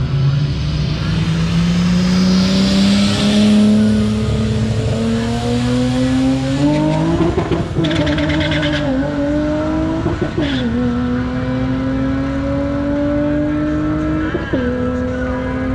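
Car engine accelerating hard on a drag strip, its pitch climbing steadily and dropping sharply at each of three upshifts.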